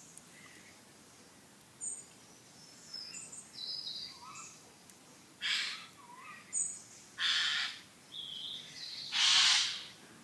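Wild birds calling in woodland: three loud, harsh, rasping calls about two seconds apart in the second half, with short high chirps and twitters from smaller birds between them.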